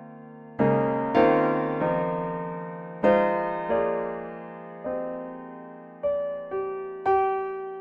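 Slow solo piano background music: sparse single notes and chords, each struck and left to ring and fade.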